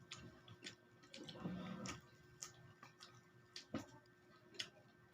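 Quiet eating sounds: irregular mouth clicks and smacks while chewing food, with a short low hum about a second and a half in.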